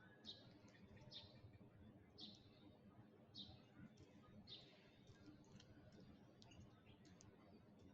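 Faint, short, sharp bird chirps, each dropping quickly in pitch, about one a second with softer ticks between them, over a low hiss.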